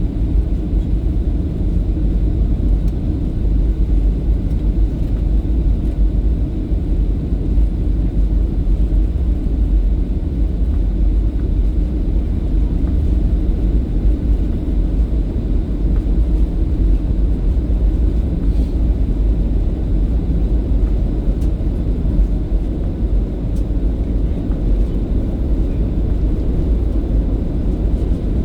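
Steady low rumble of a jet airliner heard from inside the cabin: engine and airflow noise in flight as the aircraft prepares to land.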